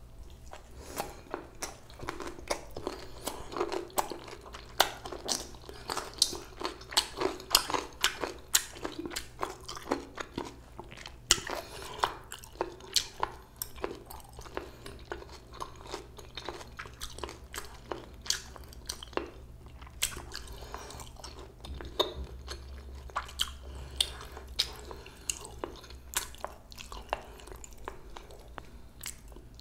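Close-miked chewing during a bossam (boiled pork) meal: a steady run of sharp, crisp crunches and wet mouth clicks, one or two a second.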